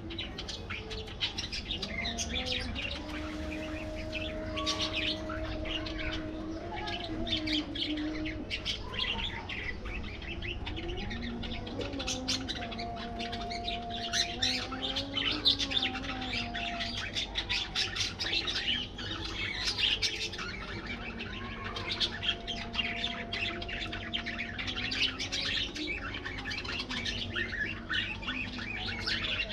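A flock of budgerigars chattering in an aviary: a constant run of fast, short chirps and squawks. Several long, level lower tones sound underneath, each held for a few seconds.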